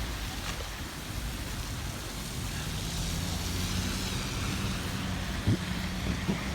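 Vehicle running in city snow, heard as a steady low engine hum over road and tyre noise, with a single sharp thump about five and a half seconds in.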